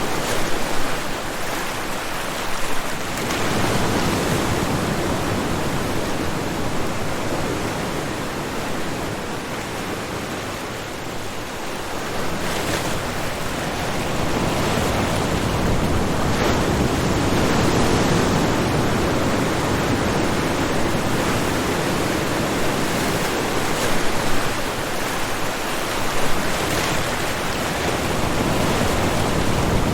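Ocean surf breaking on a shore: a continuous wash of waves that swells and eases over several seconds, with a few louder crashes.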